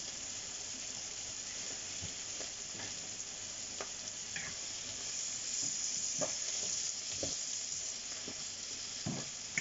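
Food sizzling steadily as it fries in oil in a pan, with a utensil stirring it and knocking lightly against the pan a few times.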